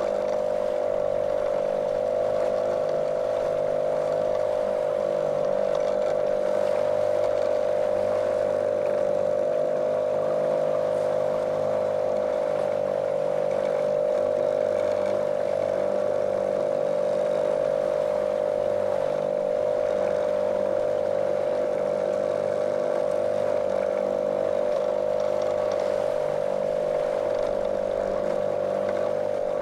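Small motorboat's motor running steadily at a constant speed, a monotonous, unchanging hum with a strong mid-pitched tone.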